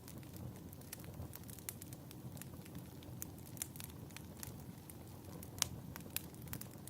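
Wood fire crackling in a fireplace: irregular sharp pops and snaps over a low steady rumble, with one louder pop a little past halfway.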